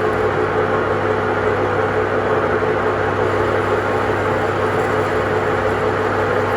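A steady machine hum with a constant pitched tone, unchanging throughout.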